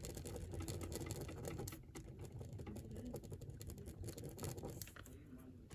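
Rapid scribbling strokes of a drawing tool on paper, faint, as small areas (the pupils of a cartoon's eyes) are colored in; the scratching thins out in the second half.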